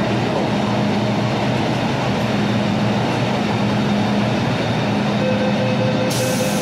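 Interior sound of an MTR Kwun Tong Line M-Train running between stations: a steady rumble with a low hum. A steady whine joins about five seconds in, and a hiss comes in near the end.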